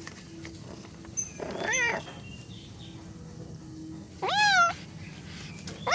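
Domestic cat meowing to be fed: two meows about three seconds apart, each rising in pitch and then levelling off, with a third beginning at the very end.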